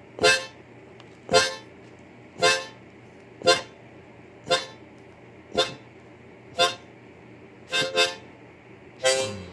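Harmonica blown in short, punchy notes about once a second, a bluesy rhythmic pattern, with a quick double note near the end leading into a held note.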